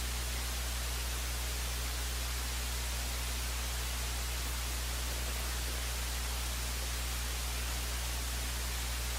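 Steady electrical hum and hiss with nothing else on it: an idle audio feed carrying only line noise.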